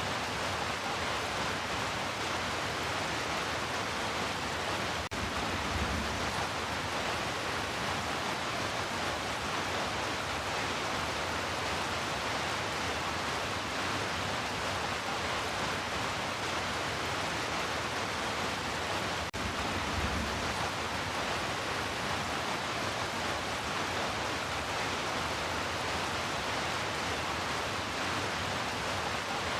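Heavy rain falling in a steady, even hiss. The sound dips for an instant twice, about 5 and 19 seconds in.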